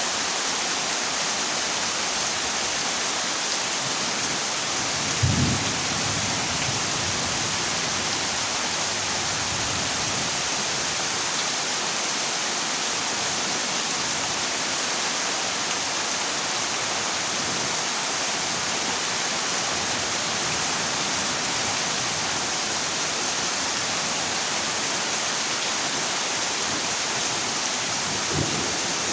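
Heavy rain falling steadily on a corrugated zinc roof. A short low rumble of thunder comes about five seconds in, and a louder rumble of thunder begins near the end.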